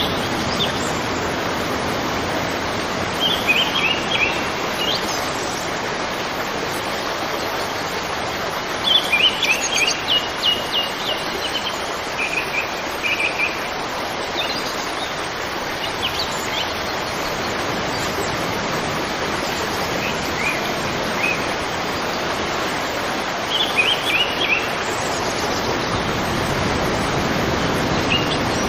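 River water flowing steadily, with a small bird chirping in short quick runs of high notes every few seconds.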